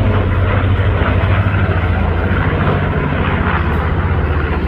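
Piston engines of a World War II bomber droning steadily as it flies past, with a fast pulsing beat from the propellers.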